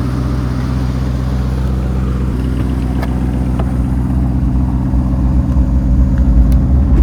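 Car engine idling steadily, growing louder over the last couple of seconds.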